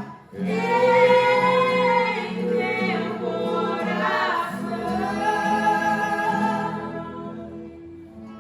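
Several voices singing a Portuguese hymn in long held notes, with a short breath just after the start; the last held note fades away near the end.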